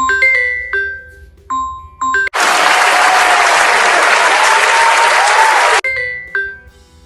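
A ringtone-style melody of bell-like chime notes, each note ringing and dying away. About two seconds in it is cut across by roughly three and a half seconds of loud, even hiss with a faint wavering tone inside it, before the chimes return.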